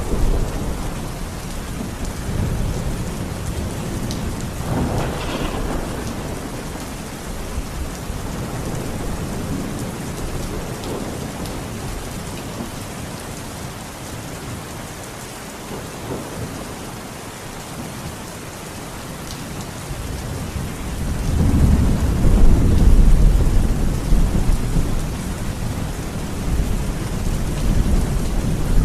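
Steady rain falling with rolling thunder: low rumbles die away through the middle, then a louder roll of thunder builds about three-quarters of the way in and trails off.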